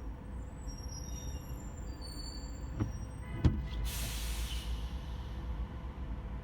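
Steady low rumble of slow, stop-and-go city traffic, with faint high squeals in the first two seconds. About three seconds in come two sharp knocks, the second the loudest. Then a nearby bus's air brakes hiss for about a second.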